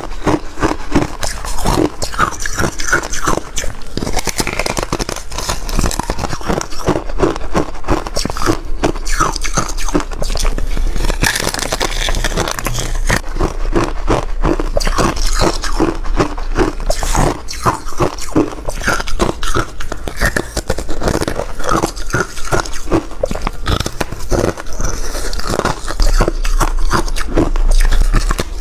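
Soft, re-shaved freezer ice being bitten and chewed up close, a dense, steady run of crisp crunches.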